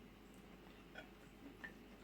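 Near silence: room tone with a few faint small clicks, about a second in and again half a second later.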